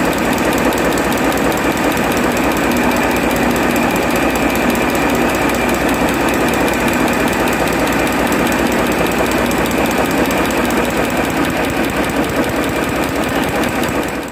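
Yanmar six-cylinder inline four-stroke marine diesel main engine running at a steady speed, with a fast, even firing rhythm.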